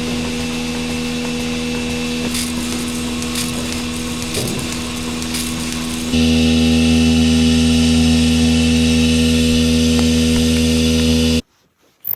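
A motor-driven machine running at a steady pitch, getting louder about six seconds in, then cutting off suddenly near the end.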